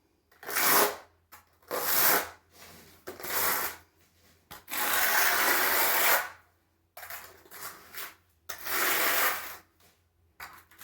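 Hand trowel scraping and spreading tile mortar across a floor in a series of rasping strokes about a second apart, with one longer stroke near the middle.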